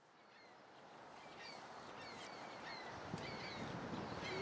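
Small birds chirping, a string of short, downward-sliding calls, over a steady outdoor background hum that fades in over the first couple of seconds.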